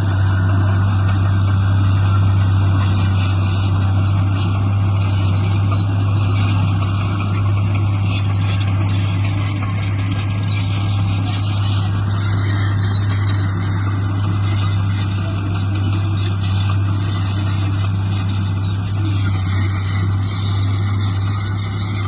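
Heavy diesel engine of earthmoving machinery running steadily under load with a constant low drone. A faint higher wavering whine rises in about halfway through and again near the end.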